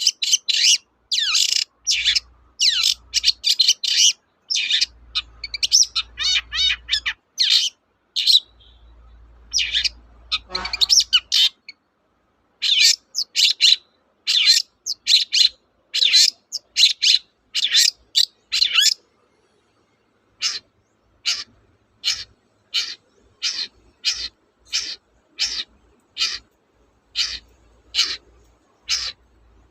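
Long-tailed shrike (cendet) singing vigorously. First comes rapid, harsh chattering with sweeping notes. After a short pause about two-thirds of the way in, it gives a steady run of short sharp calls, about one and a half a second.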